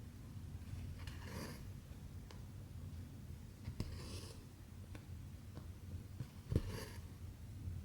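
Cotton embroidery thread being pulled through cross-stitch fabric: three soft swishing draws, about one every two and a half seconds, with a few small sharp clicks of the needle against the fabric or hoop between them.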